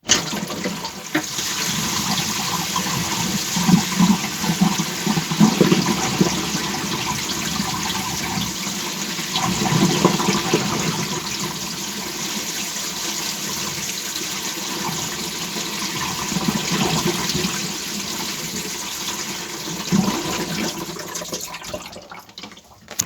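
Water rushing through a sink's plumbing, with gurgles at a few points. It starts suddenly and dies away near the end.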